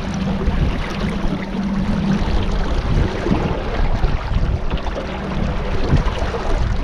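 Motorboat engine running steadily under way, a low hum with the rush of water and wind over it.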